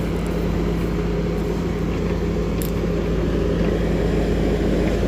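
Skid steer engine running steadily under work, a continuous low mechanical drone with a brief high click about two and a half seconds in.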